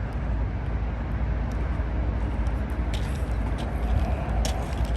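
Steady low background rumble, with a few light sharp clicks about three seconds in and again near the end.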